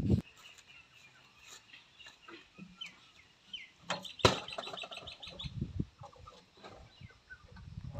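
Birds calling in the background, with a quick run of rapidly repeated high notes about four seconds in. A single sharp knock comes at about the same moment, and a few dull thumps follow as a man climbs up onto the tractor.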